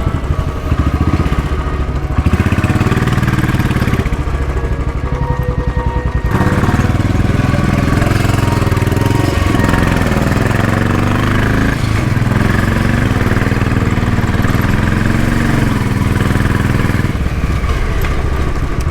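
Royal Enfield Bullet single-cylinder motorcycle engine running under way, the revs rising and falling with throttle and gear changes.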